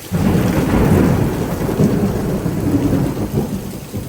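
A close thunderclap that breaks suddenly and rolls into a deep rumble, fading over about three seconds, over the steady hiss of heavy rain.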